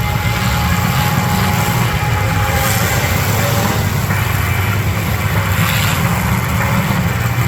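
Demolition derby cars' engines running together in a loud, steady low rumble.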